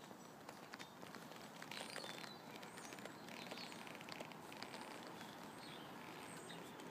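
Faint outdoor background with distant birds chirping now and then.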